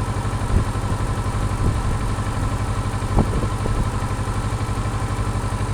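Kawasaki Versys 650's parallel-twin engine idling steadily, with a couple of brief knocks about half a second and three seconds in.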